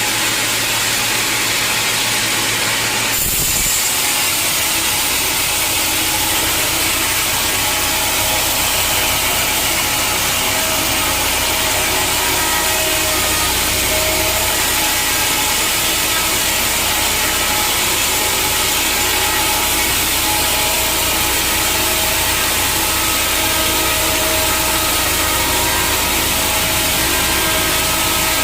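Sawmill saw running and cutting through a large log, a steady loud noise that changes abruptly about three seconds in.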